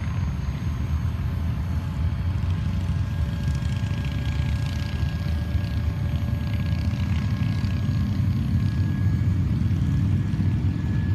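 A motor running steadily: a low rumble with a faint, steady high whine above it.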